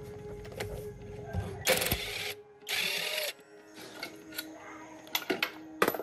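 A small machine running with a fast rhythm for about two seconds, then two short loud bursts of hiss and a few sharp metallic clicks.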